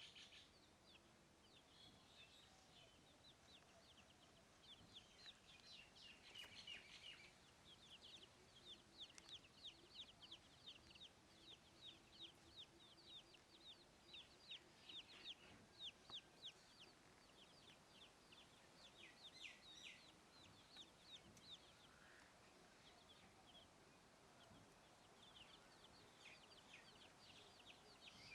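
Chicks peeping faintly: a rapid run of short, high chirps, several a second, busiest through the middle.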